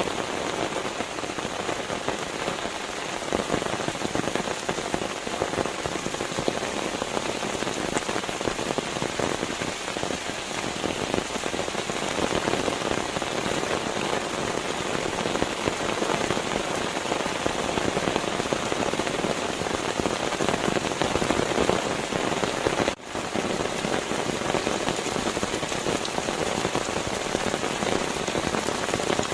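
Steady, dense rain pattering on a surface, with a brief dropout about 23 seconds in.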